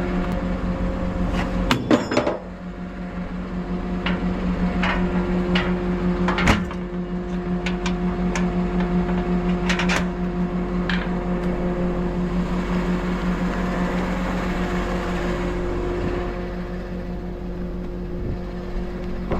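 A truck's engine running steadily with a constant hum, broken by a few sharp metallic clanks, a cluster about two seconds in and single ones later.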